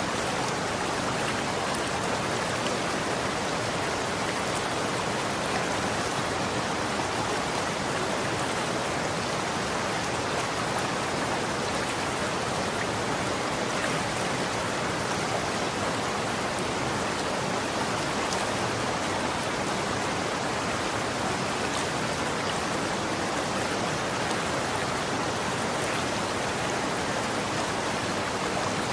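Running water, a steady even rush of flowing stream water with no breaks or distinct splashes.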